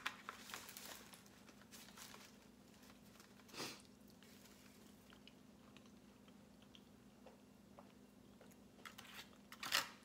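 Faint close-up chewing of soft cheese enchiladas, with scattered small mouth clicks and a couple of louder smacks, one about a third of the way in and two near the end. A low steady hum runs underneath.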